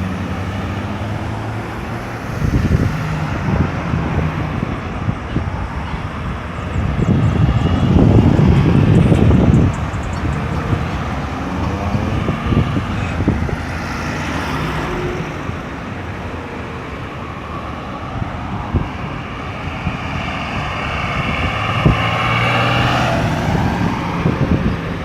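Road traffic: cars and other motor vehicles passing with engine hum and tyre noise. One vehicle passes close and loud about eight to ten seconds in, and an engine with a steady hum is heard at the start and again near the end.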